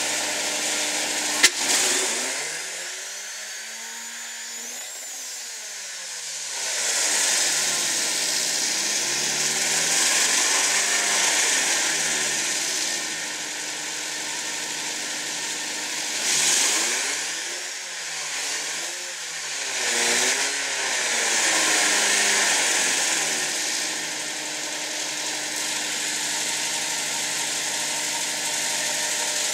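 Turbocharged Volvo B230FT four-cylinder engine idling during a cooldown after a run, with a steady hiss over the idle. A single sharp click comes about a second and a half in.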